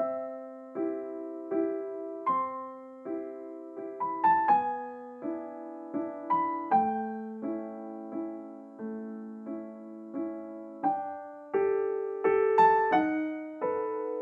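Soft, slow piano music, starting right at the beginning after silence: gentle notes and chords struck in an even, unhurried pulse, each fading before the next.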